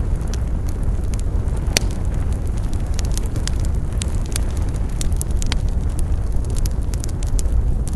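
Wood fire burning: a steady low rumble of flames with irregular sharp crackles and pops of burning wood, one louder pop a little under two seconds in.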